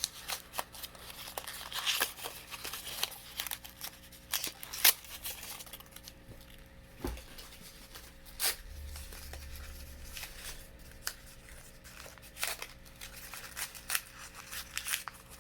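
Bakugan toy packaging being opened by hand: irregular clicks, crinkles and rustles of plastic and cardboard.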